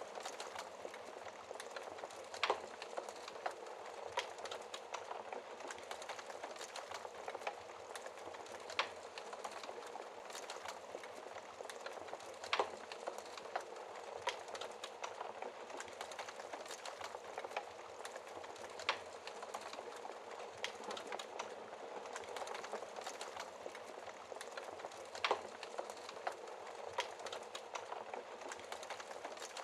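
Wood fire crackling in a fireplace: a steady hiss with many small crackles and a few louder sharp pops, the strongest about 2.5, 12.5 and 25 seconds in.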